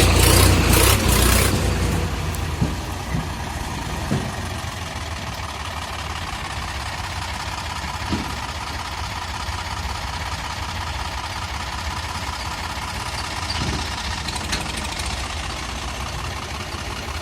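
Heavy diesel engine idling, louder and rougher for the first two seconds, then running evenly with a few faint knocks.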